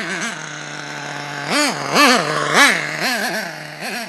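HPI Nitro Star 4.1 two-stroke glow engine in an RC truck idling steadily, blipped up in pitch and back three times in quick succession about halfway through, then twice more lightly. It is being run in after years unused, with its fuel mixture still being tuned.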